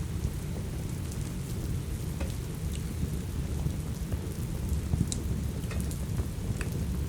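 Steady rain with a deep low rumble, mixed with the irregular sharp pops and crackles of a wood fire burning in a fireplace, the loudest pop about five seconds in.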